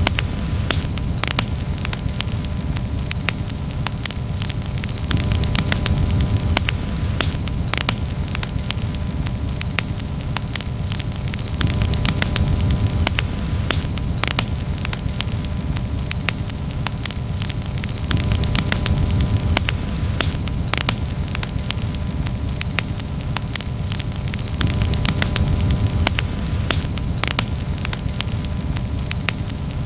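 Campfire burning, crackling continuously with many sharp, irregular pops over a steady low rumble.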